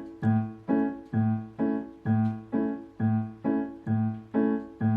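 Piano repeating an A major chord (A, C sharp, E over an A in the bass), struck evenly a little over twice a second, each strike dying away before the next.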